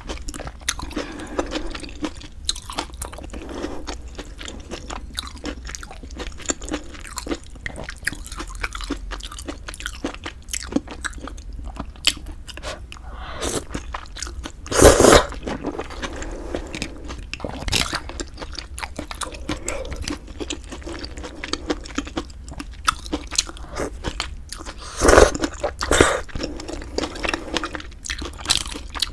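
Close-miked mouth sounds of eating pork-bone hangover soup with glass noodles: steady chewing with many small wet clicks. There are a few louder, longer eating sounds about halfway through and twice near the end.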